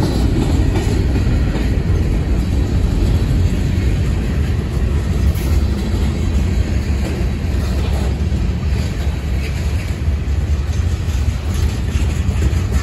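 Freight train's boxcars and covered hoppers rolling past, steel wheels running steadily on the rails.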